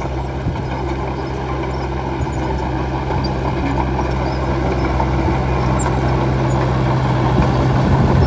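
Bulldozer's diesel engine running steadily with a deep hum and a rough mechanical rattle, getting slightly louder toward the end.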